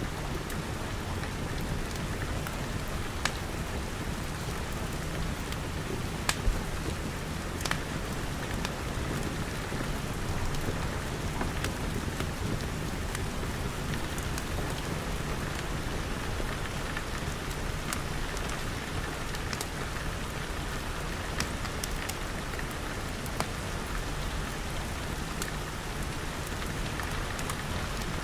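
Steady rain pattering on a glass roof and walls, with the occasional sharp crack and pop of a wood fire at irregular moments.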